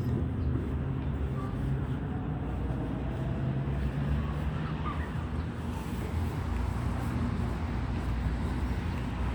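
Steady low outdoor rumble of background noise, with faint passing engine tones in the middle.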